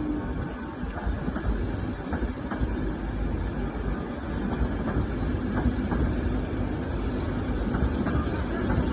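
Train running on the rails: a steady low rumble with scattered sharp clicks from the wheels and track and a faint steady hum.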